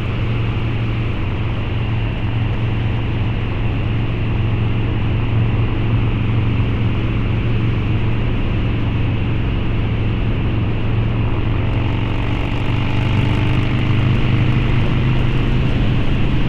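Harley-Davidson Low Rider's 129 cubic inch V-twin running through a Two Brothers Racing exhaust on the move, holding a steady engine note. It gets a little louder about twelve seconds in.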